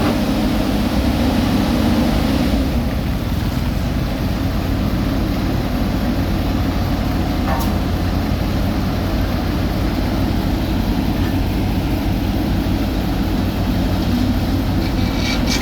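Heavy road-building machinery's diesel engine running steadily, with a louder low hum in the first couple of seconds that then settles.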